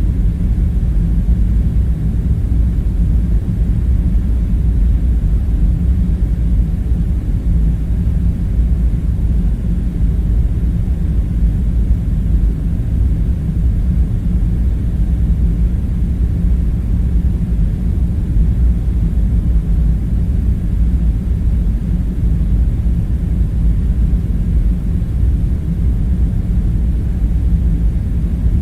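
Steady low rumbling drone with a faint hum in it, unchanging throughout: the looped background ambience of a large room.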